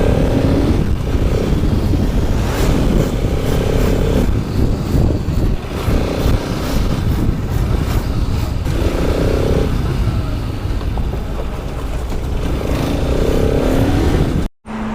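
Motorcycle riding in road traffic, heard on the rider's own camera: a steady engine and wind rumble with short mid-pitched sounds from the traffic every few seconds, cutting out abruptly near the end.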